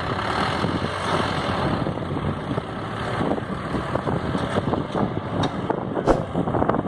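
Tractor engine running steadily under load, pulling a heavy load.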